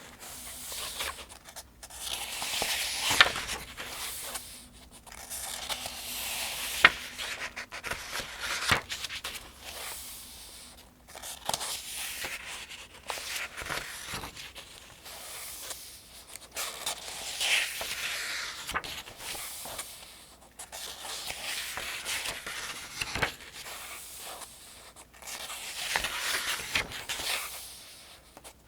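Pages of a paperback almanac being turned one after another: a rustling swish with a crisp snap as each page flips, roughly every two to three seconds.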